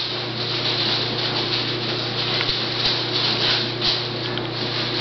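Steady hiss with a low, even hum underneath, and faint brief swells of hiss now and then.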